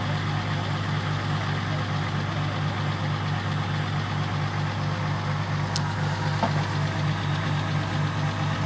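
Off-road SUV engine idling steadily, an even low hum with a regular pulse.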